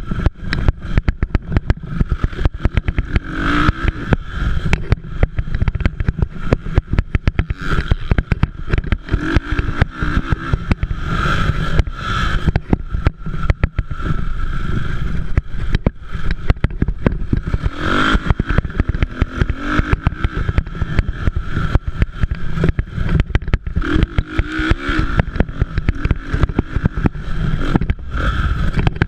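Motocross dirt bikes racing, their engines revving and easing off, swelling louder several times over a constant rough low rumble.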